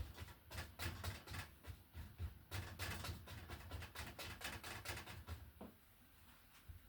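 Oil-paint bristle brush tapping and stroking quickly against a canvas, several short scratchy hits a second, dying away about five seconds in.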